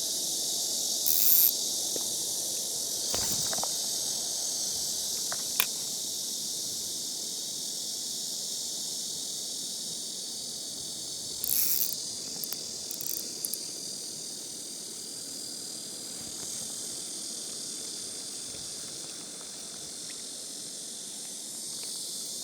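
Steady high-pitched chorus of summer insects, with a few short louder noises, one about a second in and one near the middle.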